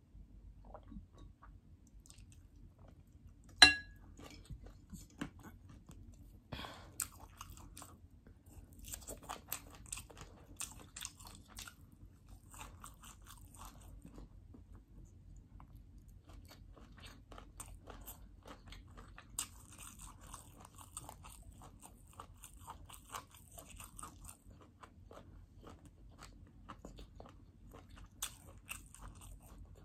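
A person chewing food with small wet crackles and crunches coming in clusters. A single sharp knock about three and a half seconds in is the loudest sound.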